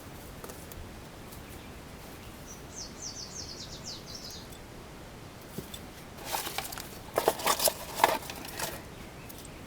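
Metal clinks and rattles of front brake pads and their steel retaining clips being handled and fitted into the caliper bracket, in a loud cluster from about six seconds in. Earlier a bird gives a short quick series of chirps.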